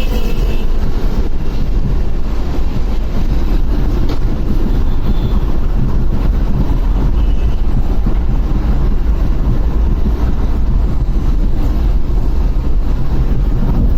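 Steady wind rush on the microphone and road noise from a moving motorcycle, heavy in the low range, with no break.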